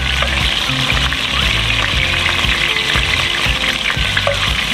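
Background music with a changing bass line, over the steady sizzle of beef liver slices frying in a pan.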